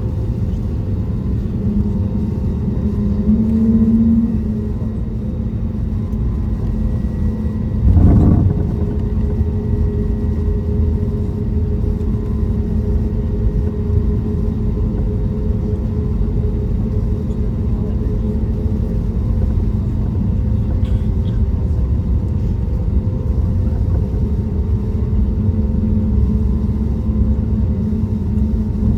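Steady low rumble inside the cabin of an Airbus A320neo, with the even hum of its CFM LEAP-1A engines. A single thump sounds about eight seconds in.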